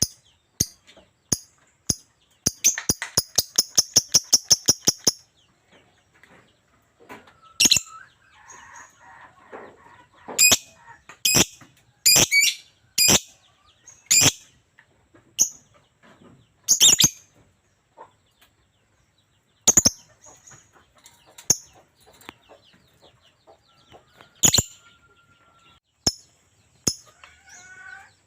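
Lovebird chirping constantly with sharp, shrill single chirps at irregular intervals, and a fast run of about a dozen repeated chirps a few seconds in.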